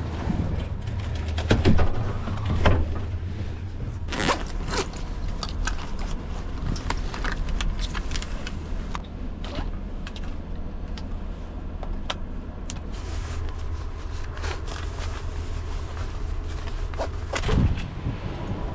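Low, steady wind rumble from the blizzard, with scattered scrapes and clicks throughout and a few louder knocks about two, three and seventeen seconds in.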